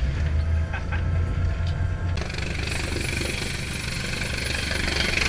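Steady low engine hum that switches abruptly, about two seconds in, to a louder rushing noise of helicopter rotor wash and strong wind on the microphone.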